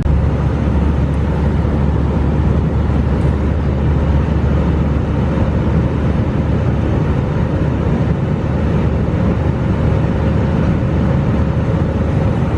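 Steady cabin noise inside an Airbus A320: a loud, even low rumble and rush of air with a faint steady hum, with no single event standing out.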